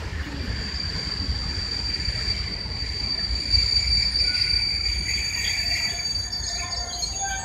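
Train rolling on the rails with a low rumble and a steady high-pitched wheel squeal, which turns uneven near the end.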